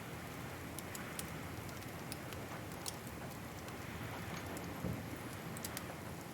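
Wood fire crackling: scattered sharp pops over a steady hiss and low rumble, with one louder pop about five seconds in.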